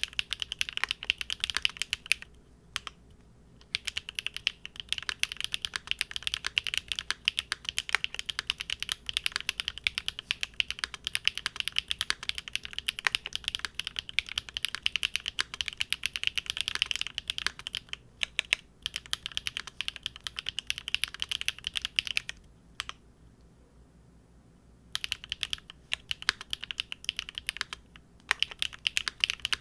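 Typing on a Big Whale custom mechanical keyboard with GEON Raw Zero switches on a polycarbonate plate: a fast, continuous run of keystroke clicks with a few short pauses, the longest about two seconds, around three quarters of the way through.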